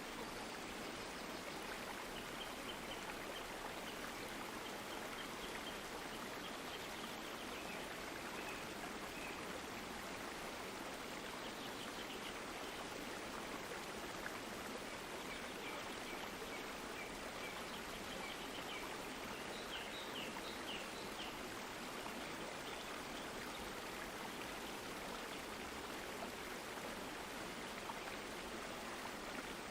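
Running water of a stream, a steady even rush with no let-up. Faint short high chirps come and go, clearest about twenty seconds in.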